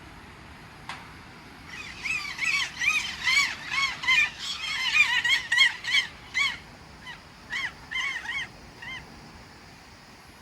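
A group of birds giving many short, arched honking calls that overlap thickly for several seconds, then thin out to a few single calls near the end.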